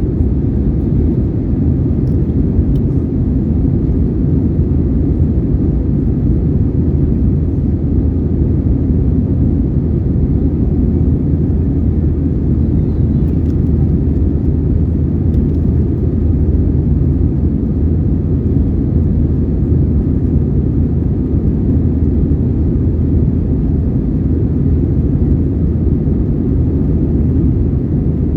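Airbus A320-232 airliner climbing out after takeoff, heard from inside the passenger cabin: a steady low roar of its IAE V2500 turbofan engines and the airflow, even in level throughout.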